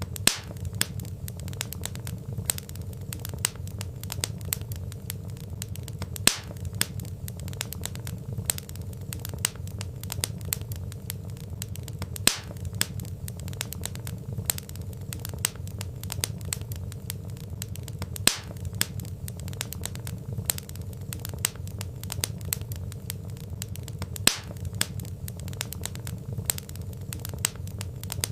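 Burning logs crackling: dense small crackles and sharper pops over a steady low rumble of flames, with a louder pop about every six seconds.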